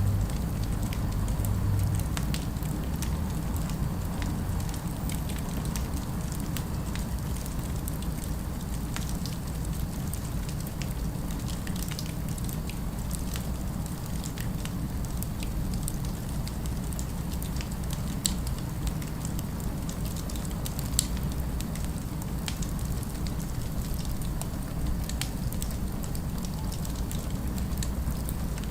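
Wood fire crackling, with scattered sharp pops and snaps over a steady low rumble of distant city ambience.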